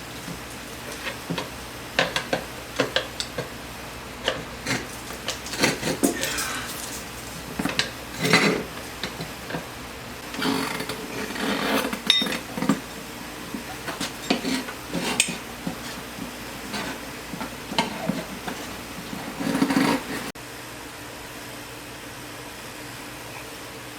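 Go-kart tire being worked off its wheel rim by hand: irregular knocks, scrapes and clatter of rubber and metal, which stop abruptly about twenty seconds in.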